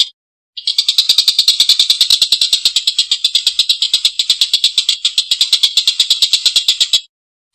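Tengkek buto kingfisher calling a long, harsh, rattling cackle: a fast run of rough notes, about a dozen a second. It starts about half a second in and breaks off shortly before the end.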